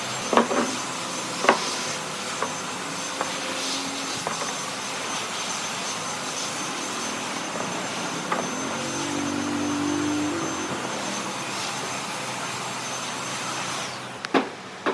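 An electric power tool running steadily with a thin high whine, cutting off sharply near the end. Several sharp knocks of wood are heard about half a second and a second and a half in, and again as it stops.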